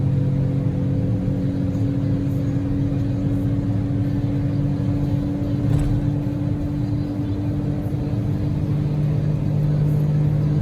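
Daihatsu Move L150S's EF-VE 660 cc three-cylinder engine humming at a steady cruise, heard from inside the cabin over a haze of road noise.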